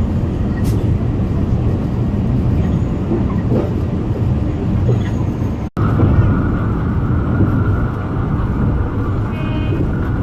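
Alishan Forest Railway train running, heard from on board as a steady, loud rumble of the carriage on the rails. It breaks off for an instant a little over halfway through, and after that a steady high-pitched tone runs over the rumble.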